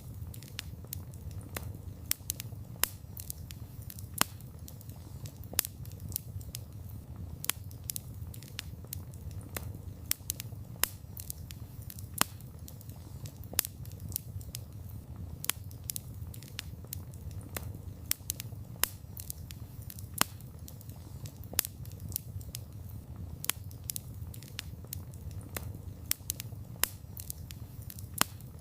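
Wood campfire burning: a steady low rumble of flames with frequent sharp, irregular crackles and pops from the burning wood.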